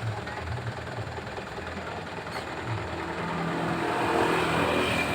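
Truck engine running with road noise while driving, getting louder about three and a half seconds in.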